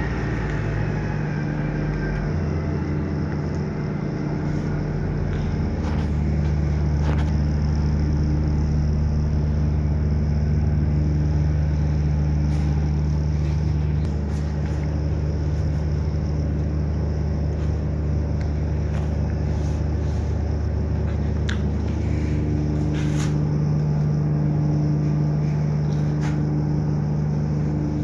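Vehicle engine running with a steady low drone, its hum growing louder about six seconds in and easing back around fourteen seconds.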